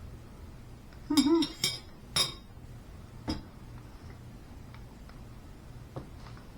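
Cutlery clinking against a plate several times while eating, with a short vocal sound about a second in.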